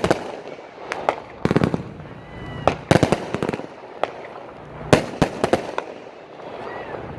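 Consumer aerial fireworks going off: four quick volleys of sharp bangs and crackling bursts, a second or two apart.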